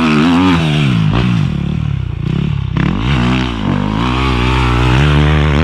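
Enduro dirt bike engine revving, the throttle blipped up and down. The revs drop off briefly about two seconds in, then climb again and hold high near the end.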